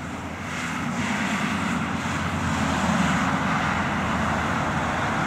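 Traffic noise from a nearby road: a steady engine and tyre rumble that swells about a second in as a vehicle draws near.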